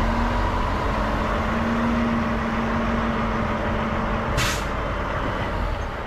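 Semi truck's diesel engine running steadily while the rig pulls forward, with a short burst of air-brake hiss about four and a half seconds in.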